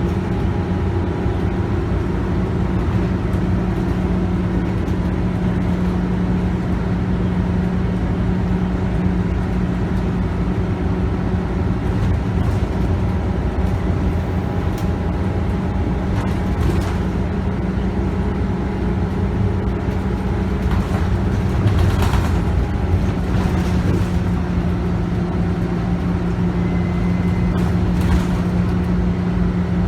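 Inside a moving city bus: the Scania DC9 9.3-litre five-cylinder diesel runs steadily over road and tyre noise. Scattered rattles and clicks come through, with one louder knock about two-thirds of the way through, where the engine note briefly breaks.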